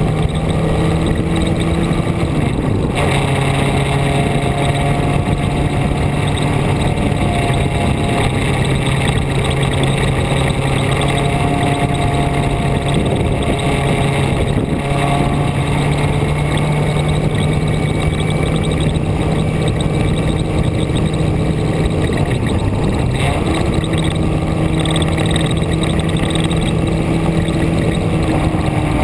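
Vehicle engine running steadily under way, its pitch shifting a few times (around 3 seconds in, and again a little after 20 seconds in), over continuous road and wind noise, as heard from on board.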